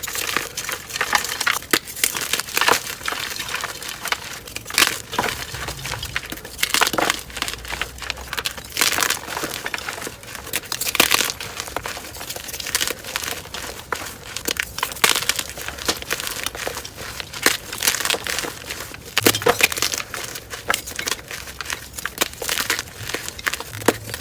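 Blocks of dyed gym chalk being crushed and crumbled, a dense run of crackles and sharp crunches, sped up to double speed.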